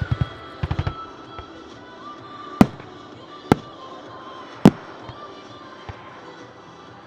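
Fireworks going off: a quick run of crackles at the start, then three sharp, loud bangs about a second apart and a fainter pop later. Music plays underneath.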